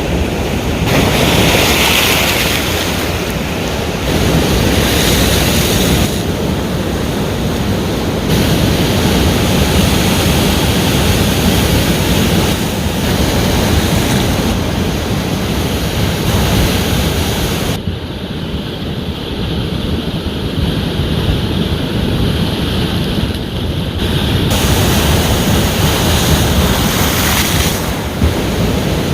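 Ocean surf: waves breaking and washing ashore in a continuous rushing hiss that swells and eases every few seconds. It goes duller and a little quieter for several seconds about two-thirds of the way through.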